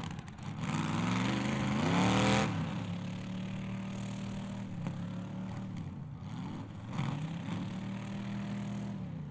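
Demolition derby car engines revving, one climbing sharply in pitch about two seconds in, then running on with the revs rising and falling.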